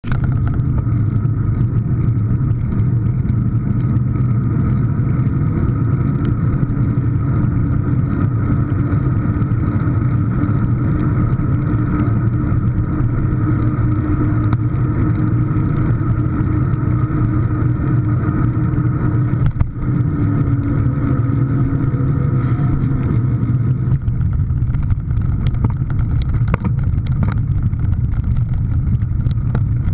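A car engine running steadily, with a deep continuous hum and a brief dip about twenty seconds in.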